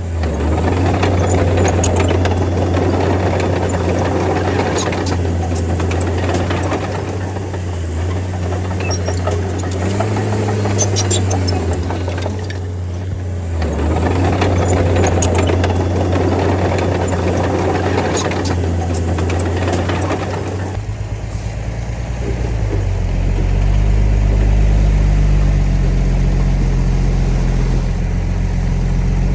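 Bulldozer's diesel engine running under load, with the grinding and clattering of its tracks and pushed soil and rocks, including scattered sharp knocks. About two-thirds of the way through the sound changes abruptly to a deeper, steadier engine drone with less clatter.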